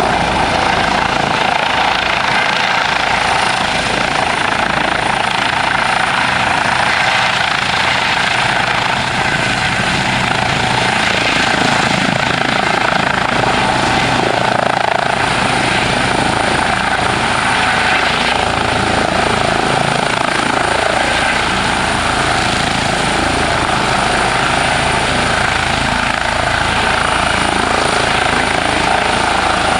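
Eurocopter EC 135 helicopter running close by, its twin turboshaft engines and rotors making a steady, loud noise with a thin high whine over it.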